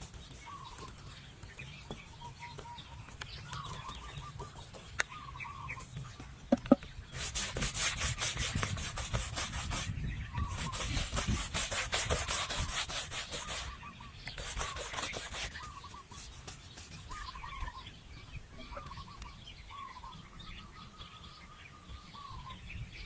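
Chickens clucking now and then throughout. Three stretches of harsh, rapid scraping strokes cut in from about seven to fifteen seconds in and are the loudest sound.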